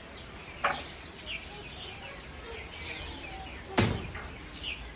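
A flock of small birds in a tree chirping busily: many short, quick, falling chirps overlapping one another. Two sharp knocks cut through, one about half a second in and a louder one near the end.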